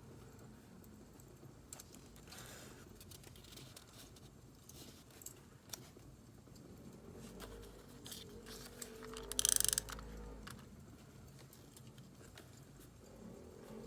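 Paper and stationery being handled during journal decorating, over the faint crackle of burning firewood. About nine and a half seconds in there is one short, loud rasp made of rapid clicks.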